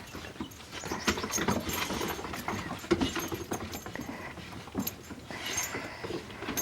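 A boxer dog playing rough with its puppies: scuffling and clicking paws, with short dog vocal sounds mixed in.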